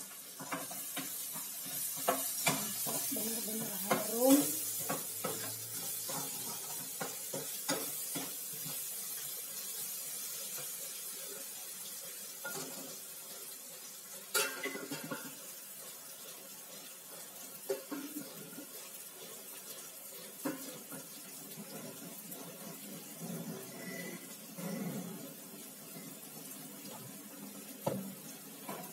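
Spice paste and onions sizzling in hot oil in a pan, a spatula stirring and scraping, with sharp taps of the spatula on the metal, the loudest about four seconds in and another around halfway.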